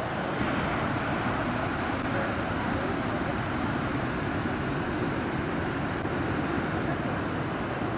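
Heavy ocean surf stirred up by Hurricane Earl's swell, breaking as a steady, unbroken wash of noise mixed with wind.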